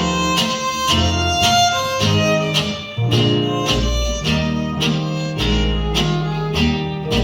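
Western string band playing the instrumental introduction to a song: strummed acoustic guitar keeping a steady beat under a fiddle melody, with a bass line underneath.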